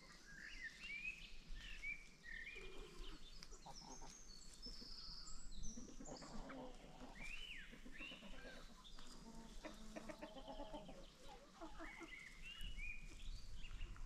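Forest birds singing and calling over one another: many short chirps, trills and rising and falling whistles, with some lower-pitched calls in the middle.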